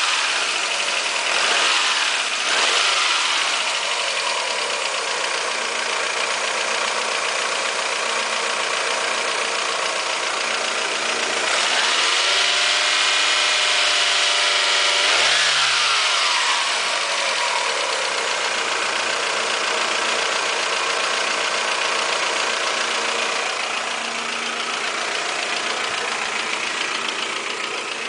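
Toyota 5S-FE 2.2-litre inline-four engine of a high-mileage Camry, about 223,000 miles on the original engine, idling. It is blipped briefly a couple of times near the start, then revved up and held for a few seconds about halfway through before dropping back to idle.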